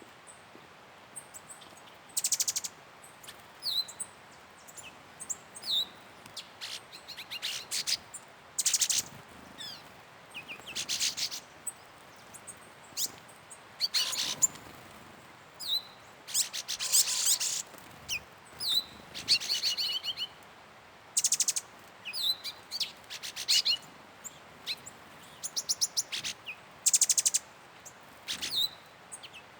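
Wild birds calling: short high chirps and quick rapid-fire trills from several birds, coming every second or two.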